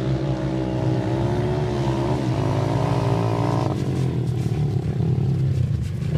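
Motocross dirt bike engines running, one engine's pitch dipping and climbing again about two seconds in before its tone drops away a little past halfway, over a steady lower engine drone.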